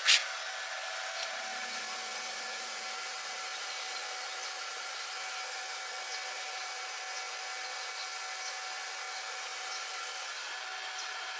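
Stick (arc) welding arc burning steadily: an even hiss with faint crackling ticks, started by a sharp metallic clink at the very beginning.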